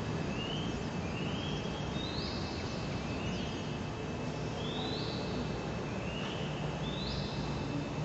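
Birds calling: short whistled notes, each sliding up and then held briefly, repeated about once a second and alternating between a lower and a higher pitch, over a steady low rumble of background noise.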